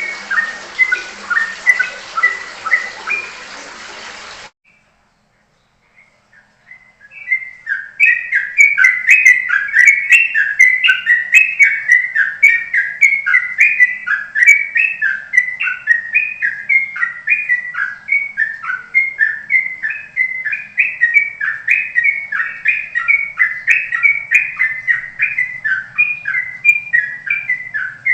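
Recorded songbird calls played back as a bird-catching lure. Chirps cut off suddenly about four seconds in, and after a few seconds of silence a new recording starts: a fast, unbroken run of short falling whistled notes, several a second.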